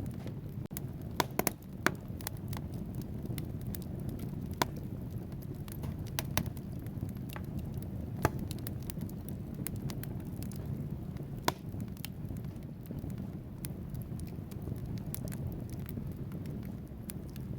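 Wood fire burning in a fireplace: a steady low rumble of flames with irregular sharp crackles and pops from the logs, the loudest cluster about a second or two in and single pops around six, eight and eleven seconds.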